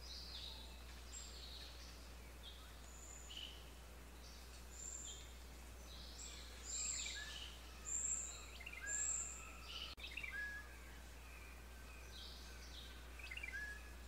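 Birds chirping: many short, high calls and thin whistles in quick succession, loudest in the middle.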